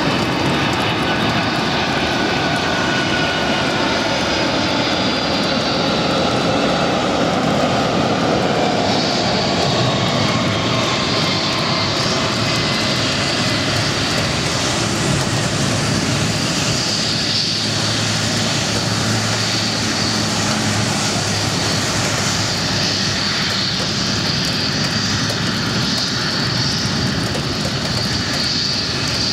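Jet engines of a landing Boeing 747-400 airliner: a loud, steady roar with engine whine that falls in pitch over the first several seconds as the jet passes, then holds as a steady high whine over a low hum.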